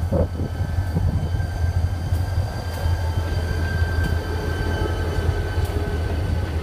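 A diesel-hauled train running: a steady heavy low rumble with a thin, steady high-pitched tone over it and a few faint clicks.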